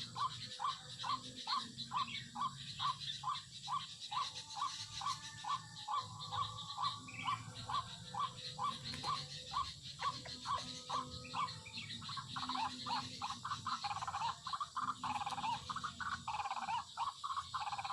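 White-breasted waterhen calls: short notes repeated about three a second, turning into a denser, jumbled run of calls about twelve seconds in.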